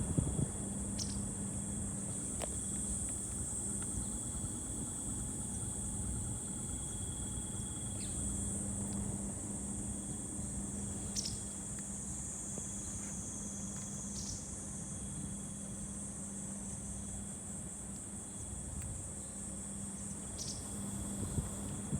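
Toshiba Kokage air conditioner outdoor unit running in cooling mode at low speed: a quiet, steady low hum with fan rumble underneath. Insects trill steadily in a high register over it, with a few brief high chirps.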